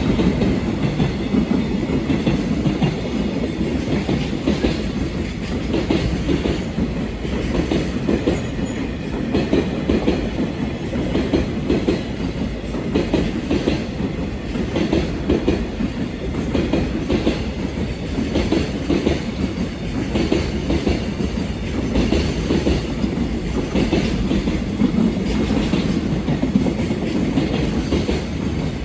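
Container freight train rolling past, its wagons' wheels clacking rhythmically over the rail joints over a steady rumble.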